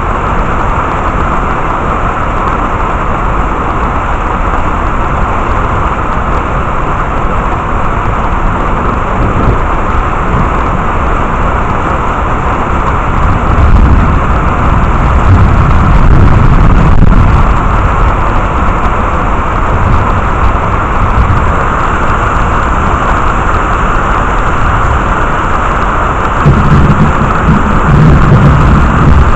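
Heavy rain pouring steadily, with two rolls of thunder rumbling low: one about halfway through, lasting a few seconds, and another near the end.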